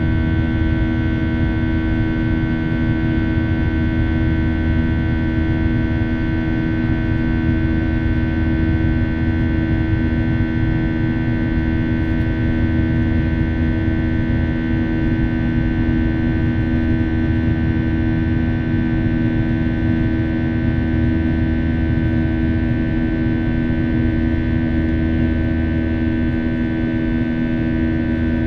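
Airliner's jet engines heard from inside the cabin during the climb after takeoff: a loud, steady drone over a low rumble, with several even, unchanging tones.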